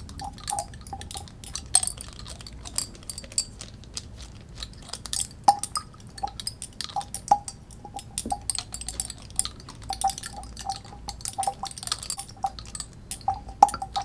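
A bottle of hair oil being shaken and handled to mix it: irregular light glassy clinks and taps, many with a short ringing note, with a little liquid sound.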